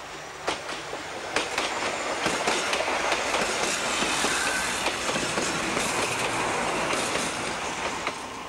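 Meter-gauge diesel train passing close by, its wheels clattering over the rail joints in a quick run of clicks. It grows loudest in the middle and eases off near the end.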